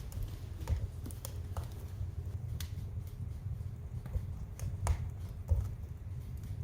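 Fire in a fireplace crackling: irregular sharp pops and snaps over a steady low rumble, with one louder pop about five and a half seconds in.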